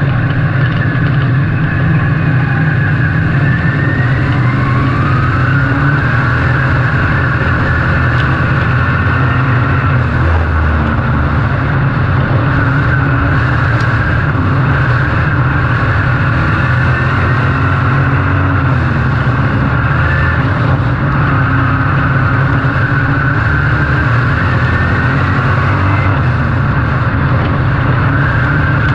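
Race car engines running hard at speed, a steady loud drone with pitch that rises and falls now and then as the cars accelerate and lift.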